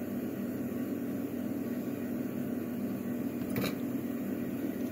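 Steady low background hum of room noise, with one faint click about three and a half seconds in.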